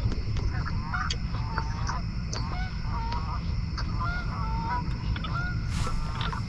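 Many short bird calls overlapping, with a steady low rumble underneath.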